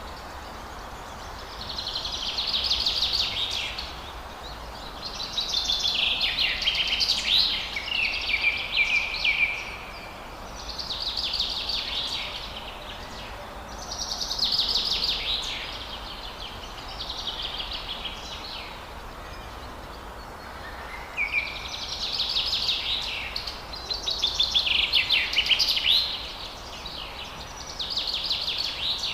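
Forest birdsong: about ten high, rapid song phrases, each one to three seconds long, repeated with short pauses between, over a steady background hiss.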